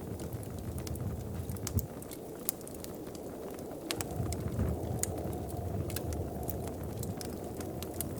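Wood fire crackling: many scattered sharp pops and snaps over a steady low rumble.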